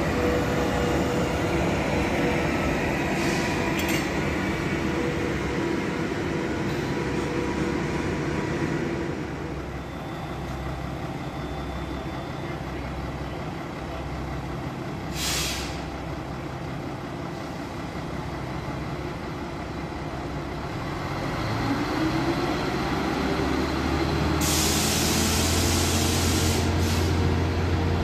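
A ČD RegioPanter electric multiple unit runs past for the first several seconds. Then a diesel railcar's engine rises in pitch as the railcar pulls away, with a short hiss of air about halfway through and a longer, loud hiss of air from its brakes near the end over the engine's steady hum.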